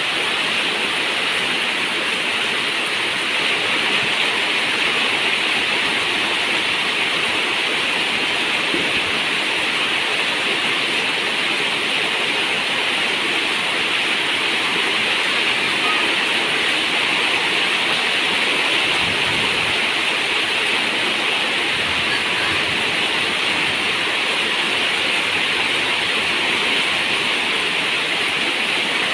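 Heavy rain falling steadily on a zinc roof: a dense, even hiss of water with no breaks.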